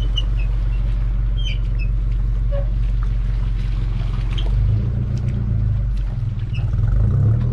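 Toyota Prado 4WD's engine running at a low, steady note as it reverses slowly with a boat trailer on tow. The note shifts about five seconds in and grows louder near the end.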